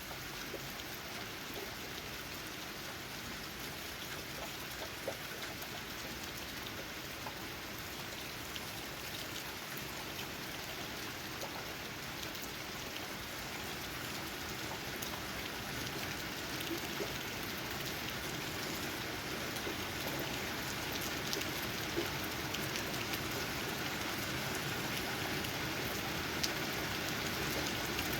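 Steady rain, with raindrops tapping on leaves as many small scattered ticks over an even hiss. The rain grows gradually louder through the second half.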